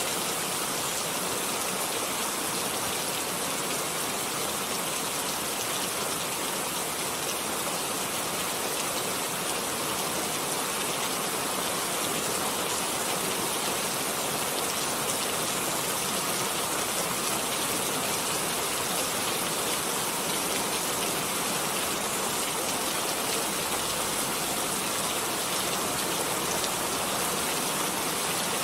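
Steady rain falling, a dense even hiss of drops with fine pattering, unchanging throughout.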